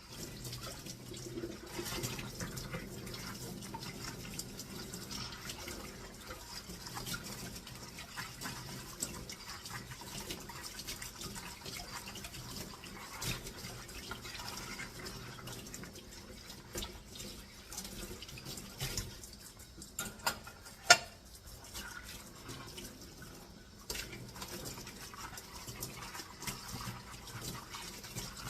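Tap water running into a kitchen sink as dishes are washed by hand, with scattered clinks of dishes. One sharp clink about two-thirds of the way through is the loudest sound.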